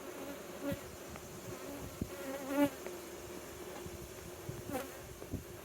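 Honeybees buzzing around an open hive: a steady hum, with single bees passing close and their wavering buzz briefly louder, about a second in and again near the middle. A few light knocks.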